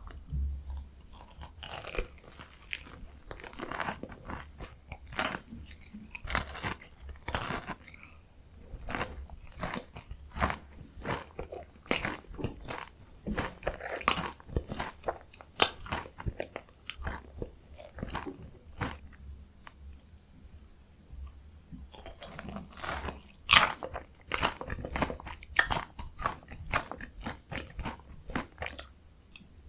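Close-miked crunching and chewing of a potato-coated mozzarella corn dog: crisp bites breaking the fried potato crust, followed by chewing. The crunching thins out for a few seconds past the middle, then a loud bite starts it up again.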